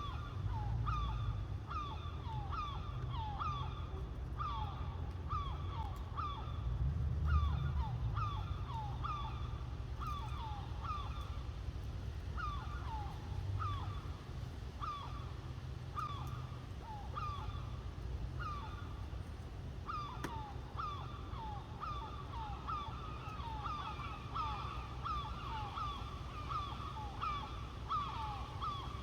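Young crows calling over and over, short downward-falling caws coming one or two a second, growing denser near the end. A steady low rumble sits underneath.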